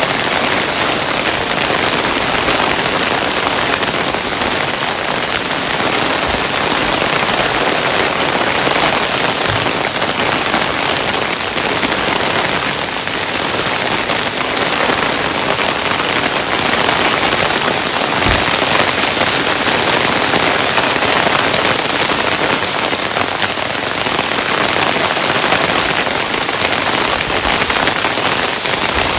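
Hailstones falling steadily, a dense even patter of many small hits with the odd heavier knock.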